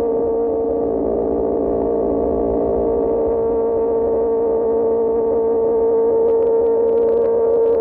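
QJ Motor SRK600 inline-four engine running through an Austin Racing GP1R exhaust, holding a steady drone at constant revs with a low rumble beneath, getting a little louder near the end.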